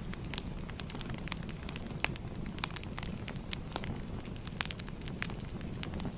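Fire crackling: irregular sharp pops and snaps, a few each second, over a low steady rumble of burning.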